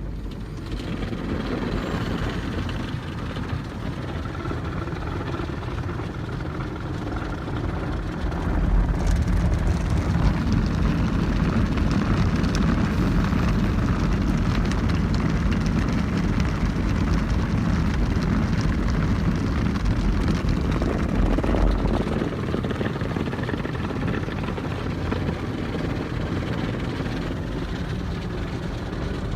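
Belanger Freestyler automatic car wash heard from inside the car: a steady rush of water and machinery on the car's body, louder for about thirteen seconds from around a third of the way in.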